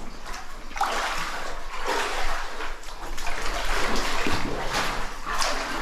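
Water splashing and sloshing in repeated surges, about once a second, as someone wades through a flooded cave passage.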